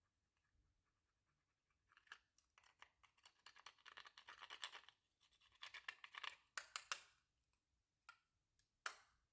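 Slime being worked by hand: faint, crackly, sticky clicking and squishing in dense bursts through the middle, then a couple of single sharp clicks near the end.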